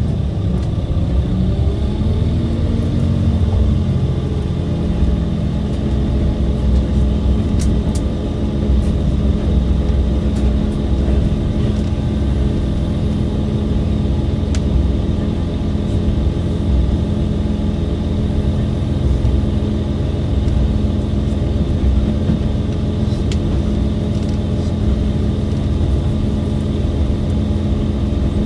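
Diesel engine of a KiHa 283 series railcar running under power, heard from inside the car: a steady low drone whose pitch rises over the first few seconds, then holds even.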